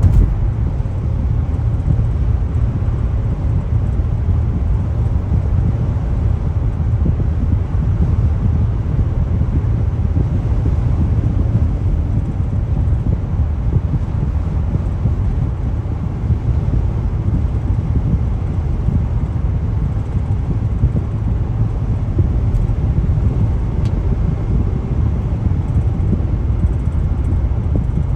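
Steady low rumble of a car travelling at highway speed, tyre and road noise with the engine, heard from the moving car, with a little wind on the microphone.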